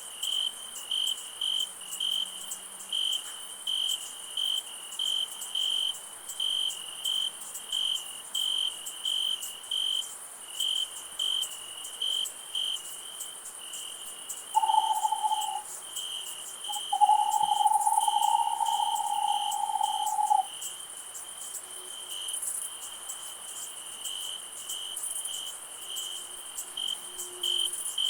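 Crickets chirping in steady pulses, about two a second, over a high insect hiss. A louder held tone sounds twice in the middle, the second lasting about three and a half seconds.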